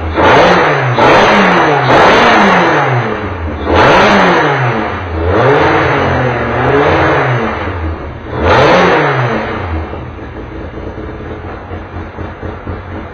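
Touring race car engine revved in about six quick blips, its pitch rising and falling each time, then dropping back to an uneven idle near the end.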